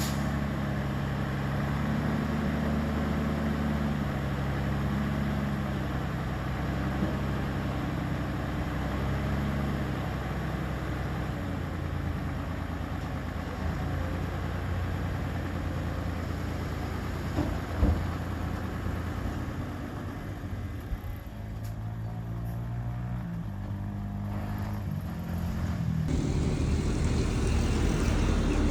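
Heavy diesel engines of earthmoving machines running, their pitch shifting up and down with load. There is a single sharp knock about 18 seconds in, and the engine sound gets louder and rougher near the end.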